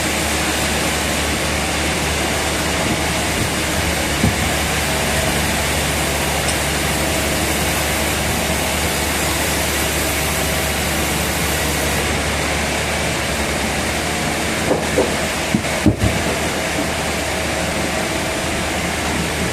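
Sawmill machinery running steadily, a dense mechanical noise over a constant low engine hum, with a few sharp knocks about three quarters of the way through.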